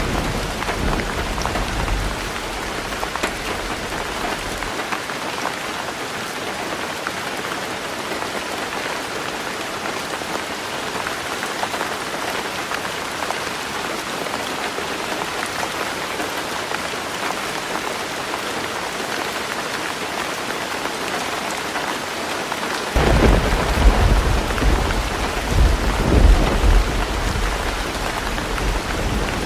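Heavy rain falling steadily on a roof. A low thunder rumble fades out in the first couple of seconds, and another rolling rumble of thunder breaks in near the end, swelling twice.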